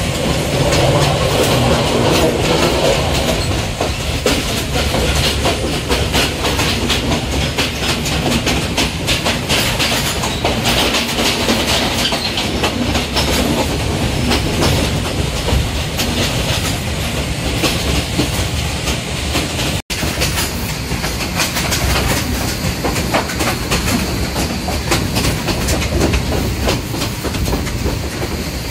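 Passenger train running along the track, heard from an open coach window: a steady rumble of wheels on rail with dense, irregular clacking. The sound cuts out for an instant about two-thirds of the way through.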